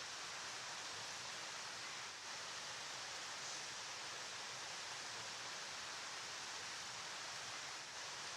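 Flowing river water making a steady, unbroken rushing hiss.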